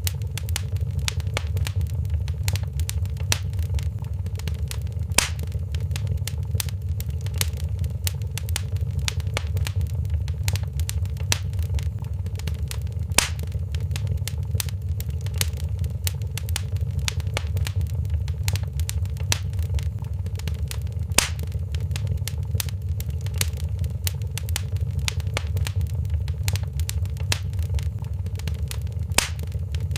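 Fireplace fire crackling over a steady low rumble, with constant small snaps and a louder pop about every eight seconds.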